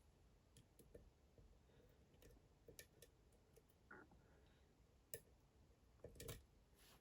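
Faint, scattered clicks of a pick and tension tool working the pins of a Dom IX Twinstar lock, a handful of light ticks at irregular intervals over near silence.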